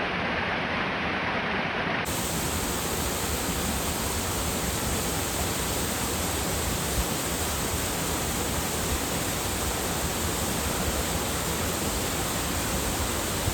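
A waterfall's steady rushing water, an even roar with no breaks. About two seconds in, the sound suddenly turns brighter and hissier and stays that way.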